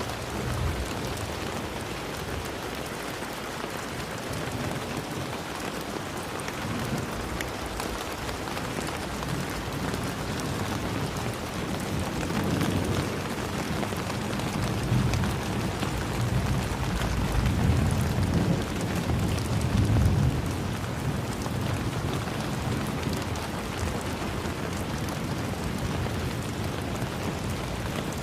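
Steady rain falling, with low rumbles of thunder swelling through the middle stretch.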